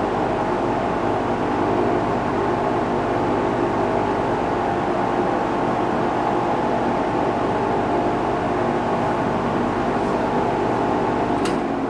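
20-inch Penncrest Model 9702 reversible box fan running on high in exhaust mode: a steady rush of air with a hum of several steady tones. A single sharp click near the end.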